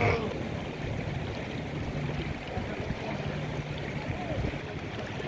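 Steady rushing water noise from heavy rain and floodwater, with a low engine hum in parts and faint distant voices.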